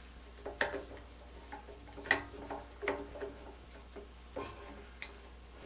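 Light, irregular clicks and knocks of tools and small parts being handled on a workbench, about six in all, the sharpest about two seconds in.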